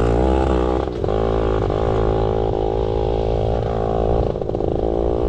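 Yamaha PW80 pit bike's small two-stroke single-cylinder engine running under throttle on the trail, its pitch rising and falling as the throttle is worked, with a brief drop about a second in.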